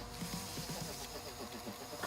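Dremel rotary tool with a wire brush whining, its pitch dipping again and again as the brush bites into the metal engine parts.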